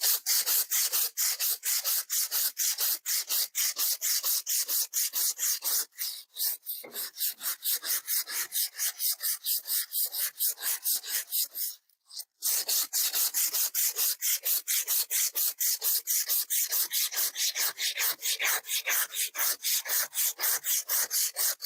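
80-grit emery cloth rubbed briskly back and forth on a rusty steel tractor bucket pin, a rhythmic scratchy rasp of about four to five strokes a second, breaking the rust off. The strokes pause briefly about twelve seconds in, then carry on.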